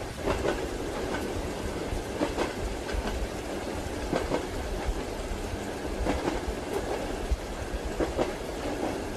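Train wheels clacking over rail joints, the strikes coming in close pairs about every two seconds over the steady rumble of a moving train.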